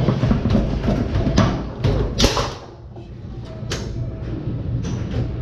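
Tornado foosball table in play: the hard ball and the players' rods and men striking and clacking in a series of sharp knocks, the loudest a little over two seconds in, then a short lull before more hits.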